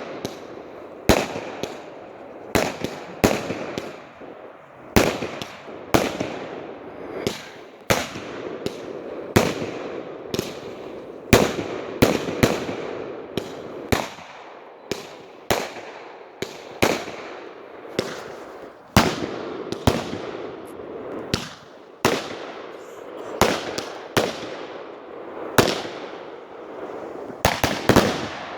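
Fireworks going off in a rapid string of sharp bangs, about one to two a second, with a hissing haze between them.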